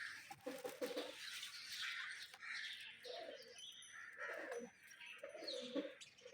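Birds making low, cooing calls, repeated about once a second, faint, with soft rustling.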